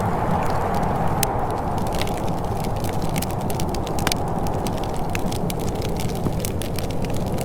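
Wood fire crackling in a fireplace, with frequent short, sharp pops over a steady low rumble.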